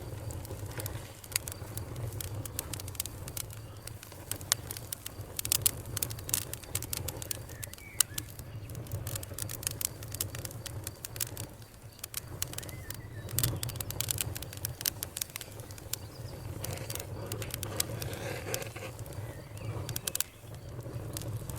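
Fire crackling, with frequent sharp, irregular pops and snaps over a low steady rumble.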